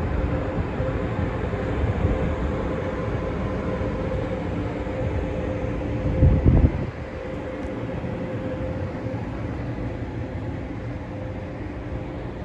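Light rail train running at a station platform with a steady electrical hum. A brief loud low rumble comes about halfway through, after which the hum is somewhat quieter.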